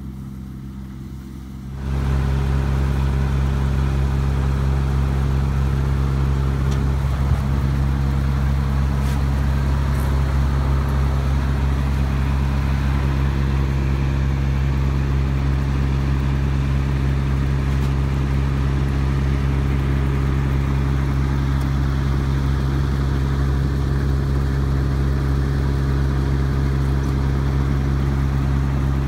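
Rice combine harvester's engine running steadily. It gets suddenly louder about two seconds in and then holds a steady drone.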